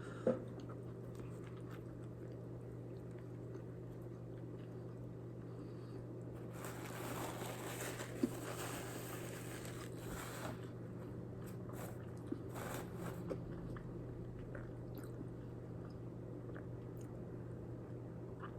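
A person quietly chewing a bite of burger, with small mouth clicks, over a steady low hum; a louder stretch of rustling noise comes in the middle.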